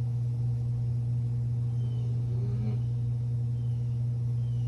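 A steady low hum holding one pitch, with a faint short clink about halfway through.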